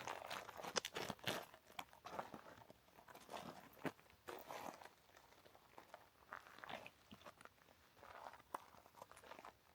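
Footsteps crunching on a woodland trail, a faint, uneven series of short scuffs and crunches.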